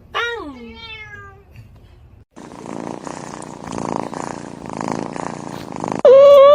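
A domestic cat gives one meow that falls in pitch, then purrs for a few seconds. Near the end a loud, high cat call starts and is held at a steady pitch.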